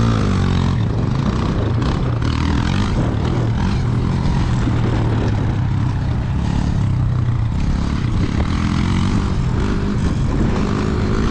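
Small gas pit bike engine running as the bike is ridden, its pitch rising and falling with the throttle, over steady wind and rushing noise on a rider-mounted camera.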